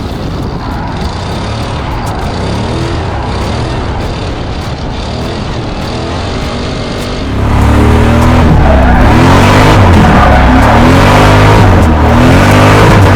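A drift car's engine revving up and down with tyres sliding. About seven seconds in it becomes much louder, the revs sweeping up and down repeatedly under a hiss of skidding tyres.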